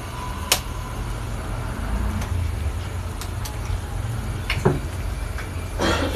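A steady low rumble with a handful of short, scattered knocks and clicks, the kind made by handling kitchen utensils and dishes.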